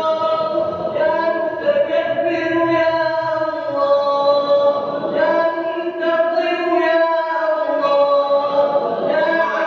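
A congregation of voices chanting together in long held notes that swell and bend, the collective response to the imam's supplication in the night prayer.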